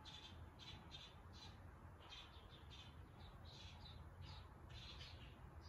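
Near silence: faint bird chirping, many short irregular chirps, over a low steady room hum.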